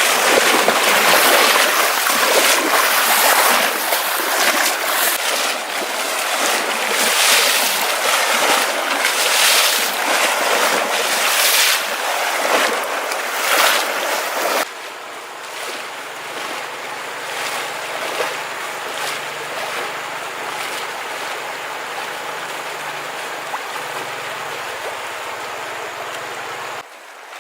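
Rushing, splashing water, loud and surging unevenly for about the first half, then after a sudden cut a quieter, steady flow.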